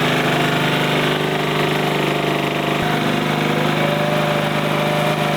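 Engine of a riding lawn mower running steadily as it is driven through mud.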